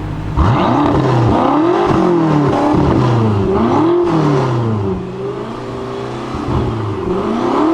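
BMW engine revving hard, its pitch rising and falling over and over, coming in suddenly about half a second in and climbing again near the end.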